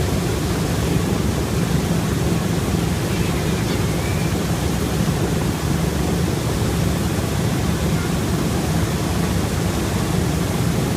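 The B-17 Flying Fortress's Wright R-1820 Cyclone radial engines running steadily, a dense, even low rumble with no change in speed.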